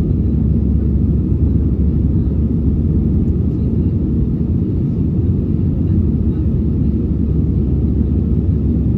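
Steady low rumble inside the cabin of an Airbus A320 climbing out after takeoff: engine noise and airflow over the fuselage, with no changes.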